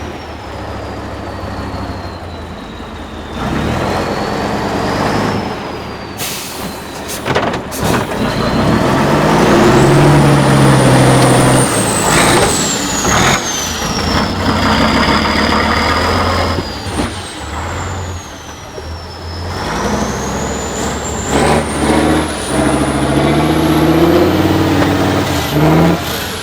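Heavy off-road trial truck's diesel engine labouring under load, revving up and down, with a high turbo whistle that rises and falls along with it. A few short, sharp sounds cut through about a quarter and half of the way in.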